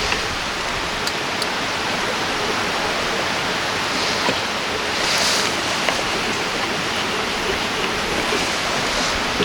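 River water flowing, a steady rushing noise, with a couple of faint clicks about a second in.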